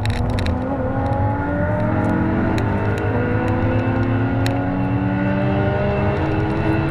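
Lotus Evora GT430's supercharged V6 at full throttle on track, its pitch rising steadily as the car pulls hard through a gear.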